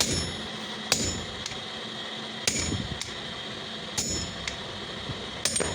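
Hammer striking steel, five ringing metallic blows spaced about a second and a half apart.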